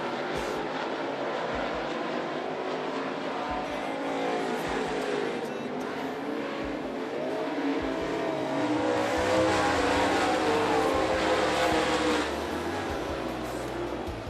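Dirt late model race cars running at speed around the track, their V8 engines rising and falling in pitch as they pass. The pack is loudest from about nine to twelve seconds in.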